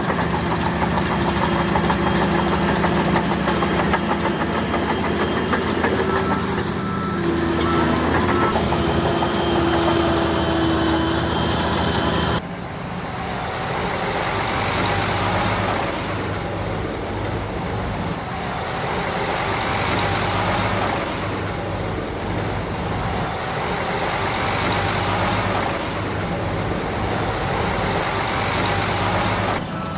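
Heavy construction machinery engines running steadily. The sound changes abruptly about twelve seconds in, to a different engine note.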